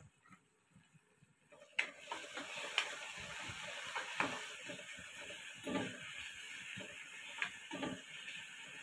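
Chopped onion, green chilli and garlic sizzling in hot oil in a metal kadhai, with a spatula scraping and knocking against the pan as it is stirred. The sizzle and stirring start about two seconds in, after a near-silent moment.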